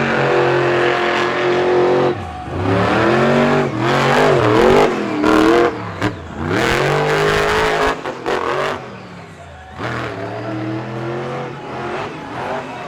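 Monster truck engine revving hard under full throttle, pitch climbing and falling as the driver works the throttle, with sudden throttle lifts about two seconds in, around six seconds and again near eight seconds. After the last lift it settles to a lower, quieter running for the final few seconds.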